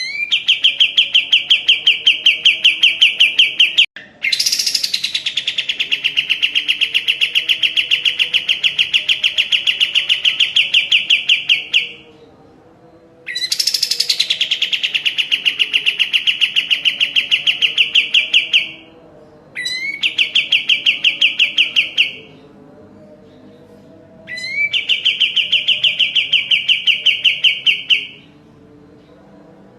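Kapas tembak bulbul singing its rapid rattling trill song: five long trill phrases, several lasting many seconds, each a fast run of repeated notes, some opening with a quick rising note, separated by short pauses.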